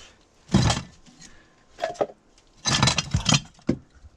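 Hard debris being handled and dropped, clattering and clinking with a glassy ring. There is a heavy knock with a thud about half a second in, then a quick run of clinks and knocks around three seconds.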